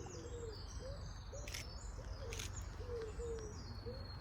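An owl hooting: a run of short, low hoots, about two a second, with small birds chirping high above them and two sharp clicks in between.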